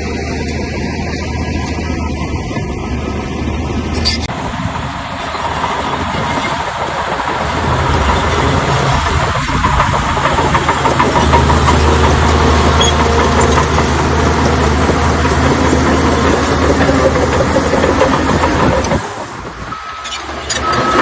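Shantui bulldozer's diesel engine running steadily, with a noisy mechanical clatter over it. The sound changes abruptly about four seconds in, gets louder a few seconds later, and drops briefly near the end.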